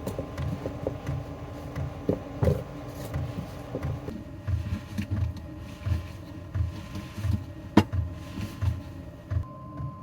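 Bread dough being mixed and kneaded by hand: soft rhythmic thuds, about two or three a second in the second half, with small knocks and one sharp click near 8 s.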